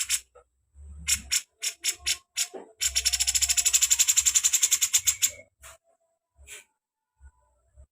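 A small songbird calling: a few sharp, high separate notes, then a fast, even chattering trill of about a dozen notes a second for a couple of seconds, then a few more single notes.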